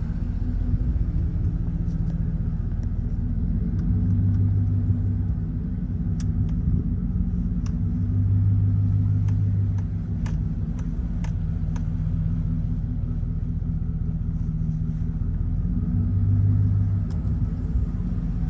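Motor vehicle engine running steadily at low speed, its note swelling a few times, with scattered light clicks and rattles.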